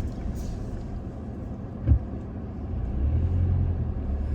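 Toyota Tacoma pickup driving on a hard-packed dirt road: steady low engine and tyre rumble. A single thump comes about two seconds in, and the low engine hum grows a little louder near the end.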